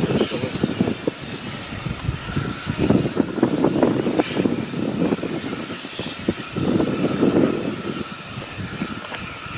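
Train running on the railway line: an uneven rumble that swells and fades several times.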